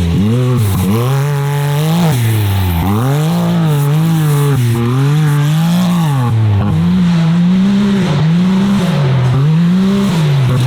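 Can-Am side-by-side's engine being driven hard around a dirt track: the throttle opens and closes over and over, so the engine note climbs and drops every second or two.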